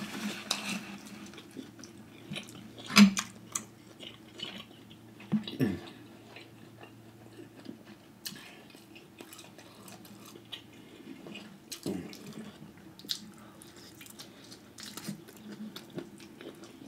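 Close-miked chewing and wet mouth sounds of a person eating lobster tail meat dipped in sauce: scattered smacks and clicks, the loudest about 3 seconds in, over a faint steady low hum.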